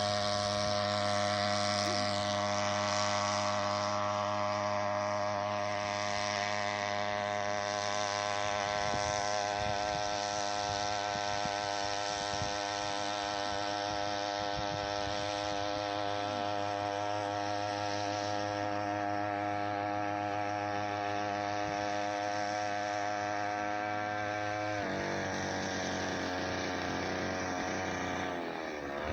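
Small 3 hp outboard motor running steadily under way. About 25 seconds in its pitch drops a little, and near the end it dips briefly lower and then picks up again.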